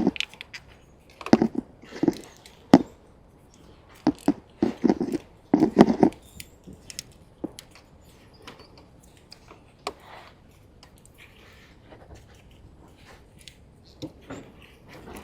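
Hands working plastic wire loom and tape over a car's wiring harness: irregular crinkling, snapping and clicking, busy and loud for the first six seconds, then sparse and faint.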